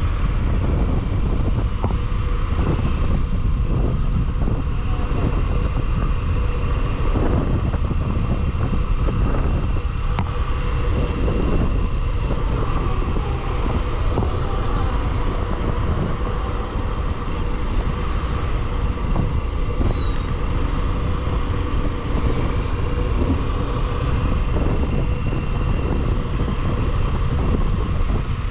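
Single-cylinder Bajaj Pulsar motorcycle being ridden at a steady road speed: engine and road noise mixed with wind buffeting the microphone.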